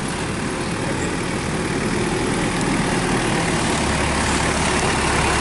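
A jeep's engine running steadily, with a low rumble that grows slightly louder about four seconds in.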